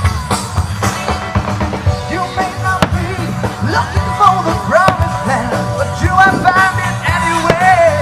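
Band playing rock music with a singer and drums, with sharp hits throughout.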